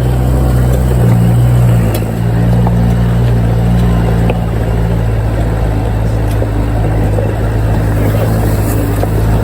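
4x4 engine running steadily at low revs in first gear as the vehicle crawls along a rough off-road track, its low drone shifting slightly in pitch, with a few faint knocks.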